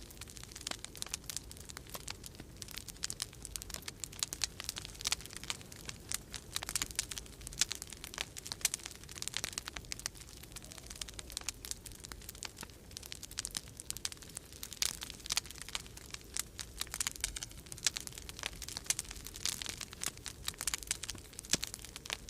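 Wood fire crackling in a fireplace, with dense, irregular pops and snaps, over a low steady rumble of winter storm wind.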